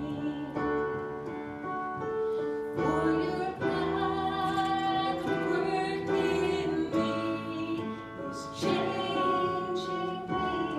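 Church worship music: voices singing over instrumental accompaniment, with sustained chords changing every second or so.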